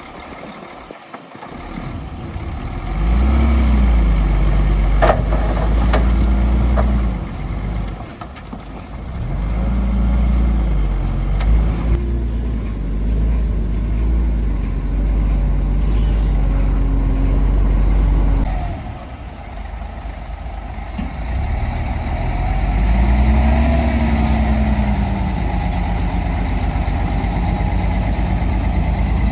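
Heavy construction machine's diesel engine working under load, its pitch rising and falling several times as the throttle is opened and eased off, with a few short knocks early on.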